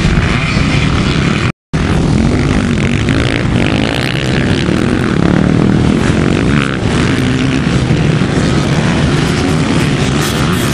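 Vintage motocross motorcycle engines running hard on the track, revving up and down as the riders work through the gears and corners. The sound cuts out completely for a moment about a second and a half in.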